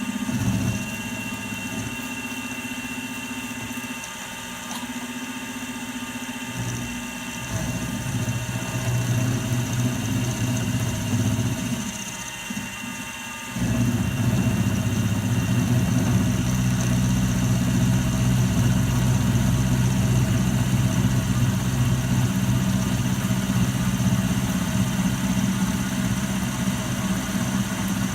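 Milling machine running steadily, growing louder about halfway through.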